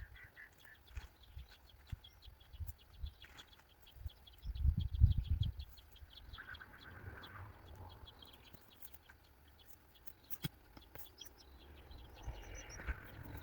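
Birds chirping in the background with a fast run of faint high ticks, over low thuds and rumbling that are loudest about four to six seconds in.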